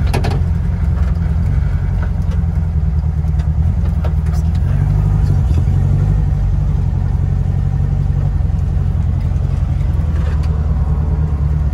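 Engine of a 1969 Barris Mini T, an air-cooled VW flat-four, running steadily as the car drives along. It makes a low drone whose note shifts slightly about halfway through.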